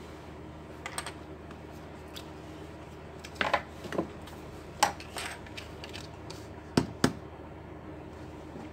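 Small plastic laptop case parts being handled and fitted together on a workbench: a series of scattered sharp clicks and taps, two close together near the end.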